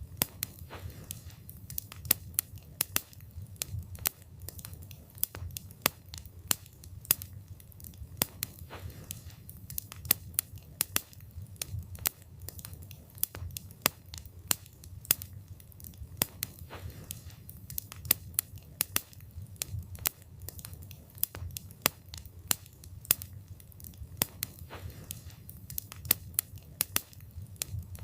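Wood fire burning with many irregular crackles and pops, over a low steady rumble of the flames.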